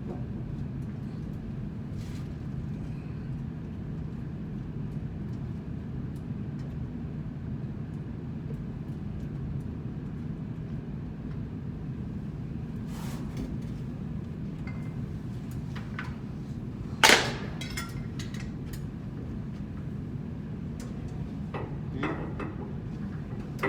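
Steady low mechanical hum, with a few scattered metal clinks of hand tools and one loud ringing metallic clank about two-thirds of the way through, during work on a blower's bearings.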